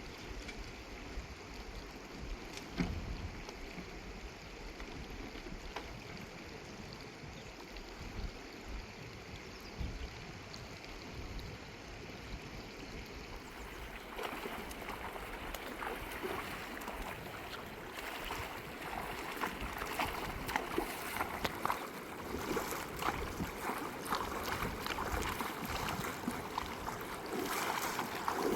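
Running river water with some wind noise. About halfway through it gets brighter and busier, with many small clicks and taps over the flow.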